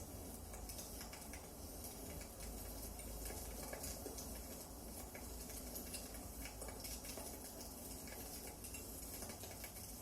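Wood fire crackling: irregular small pops and snaps over a faint steady hiss and low rumble.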